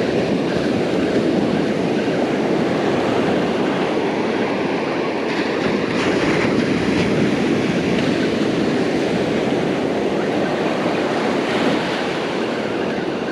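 Steady wash of small, calm surf breaking along the beach.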